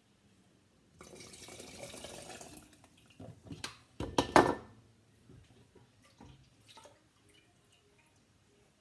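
Liquid running or pouring for about two seconds. It is followed by a few sharp knocks and clinks of kitchen items, the loudest about four seconds in, then a few faint light clicks.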